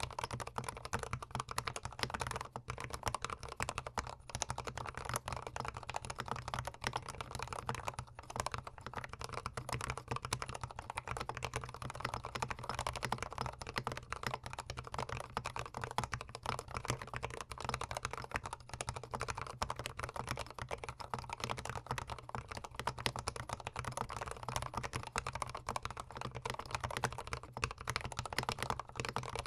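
Continuous fast typing on a GMMK Pro gasket-mount mechanical keyboard fitted with Gateron Yellow linear switches, a dense stream of key clacks recorded close to the keyboard.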